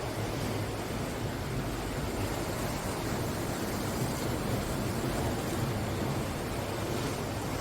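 Steady ocean surf washing onto a pebble beach, a continuous rushing wash with no separate break standing out.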